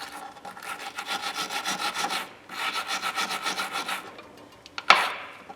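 A brush scrubbing gritty dirt out of the inside of an old adjustable wrench, in two runs of rapid rubbing strokes of about two seconds and a second and a half, with a single sharp click near the end.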